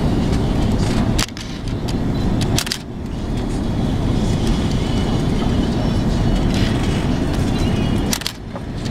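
Steady low roar of engine and airflow noise inside an Airbus A330 airliner cabin on final approach, dipping sharply for a moment three times.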